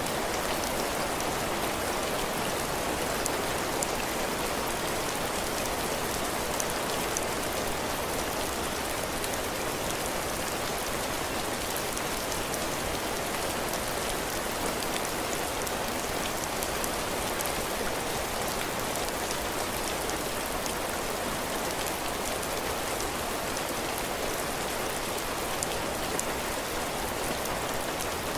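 Heavy rain falling steadily, drops hitting a roof and the ground, with fine crisp drop ticks over a dense hiss.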